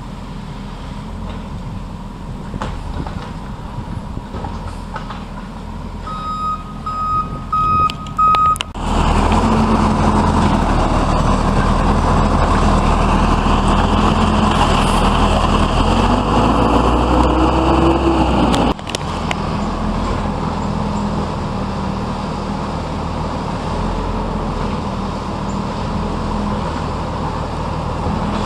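Garbage truck's diesel engine idling while its backup alarm beeps a few times. The engine then runs up loud for about ten seconds, a whine rising in pitch near the end, and drops back to idle suddenly.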